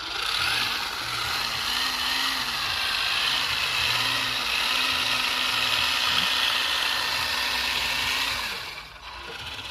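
Electric RC car running at full throttle: a steady mechanical rush of motor whine and drivetrain rattle, the whine wavering up and down in pitch, dropping away about eight and a half seconds in.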